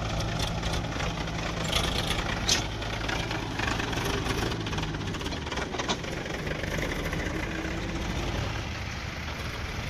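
Heavy diesel engine running steadily at low revs, with a few sharp knocks over it near the start and about halfway through.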